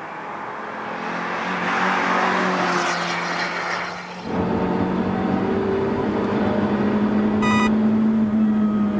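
Toyota Corolla FX16 GT's 1.6-litre twin-cam four-cylinder engine driven hard on a track. It is first heard from trackside as the car comes through a corner and draws nearer. It is then heard from inside the cabin, its pitch climbing slowly as the car accelerates down a straight. A short beep sounds near the end.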